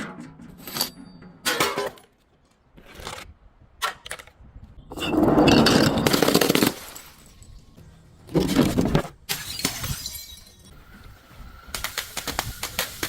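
Glass bottles breaking in a series of separate crashes. The longest and loudest comes about five seconds in and lasts nearly two seconds, another follows about eight and a half seconds in, and a quick run of sharp cracks comes near the end.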